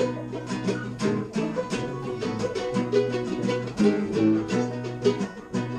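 Acoustic plucked-string music, led by guitar, playing an instrumental passage between sung lines: quick picked and strummed notes over a low, steady bass line.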